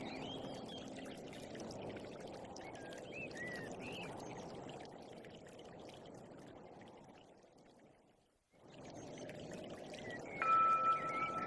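Running water, a steady rush, with short bird chirps over it in the first few seconds. It fades out to silence about eight seconds in, then comes back, with steady musical tones entering near the end.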